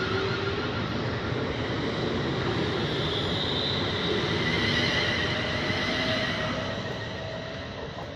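A train passing through, its running noise swelling to a peak about five seconds in and then fading away, with a few faint steady tones over the rumble.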